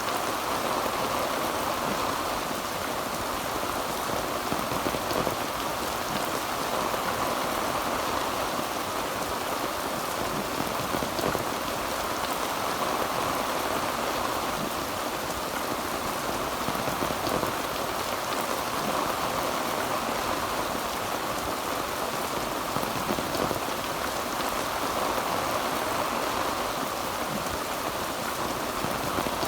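Heavy rain falling steadily on a tin roof, a constant dense patter.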